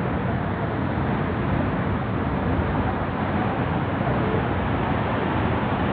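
Waterfall's rushing water, a steady even noise of heavy falling water in strong flow.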